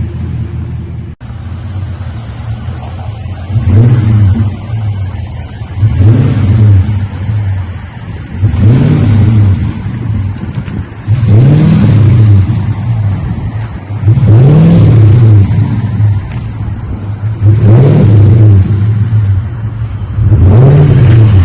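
2022 Ford F250's 6.2-litre gas V8 revved about seven times, roughly every three seconds, each rev rising and falling in pitch before it settles back. It runs through a custom cat-back dual exhaust with a Magnaflow single-in/dual-out muffler and a Y pipe in place of the factory mid muffler.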